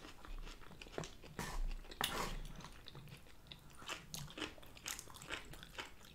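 Two people chewing mouthfuls of sushi and poke: irregular crunchy bites and small mouth clicks, some louder crunches about one and two seconds in.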